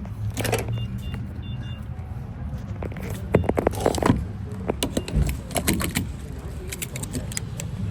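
Steady low hum of an idling pickup truck engine, with a few short high beeps about a second in and a run of sharp clicks and knocks from partway through to near the end.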